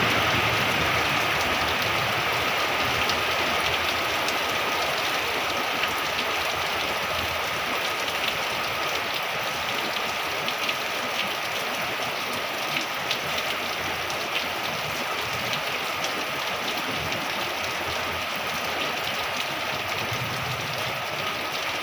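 Heavy rain falling steadily, a dense hiss with many scattered sharp drop taps.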